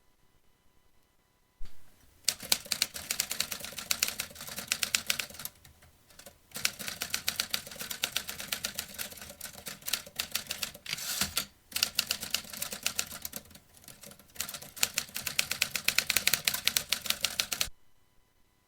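Vintage manual typewriter being typed on: fast runs of key strikes with a few short pauses, starting about a second and a half in and stopping shortly before the end.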